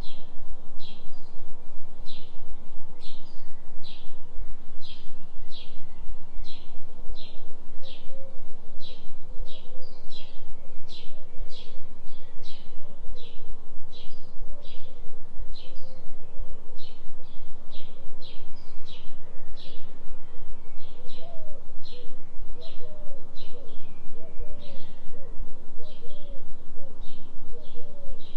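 Forest bird chirping over and over, short high chirps at about one and a half a second, with softer warbling calls lower down. A steady low binaural-beat tone hums underneath.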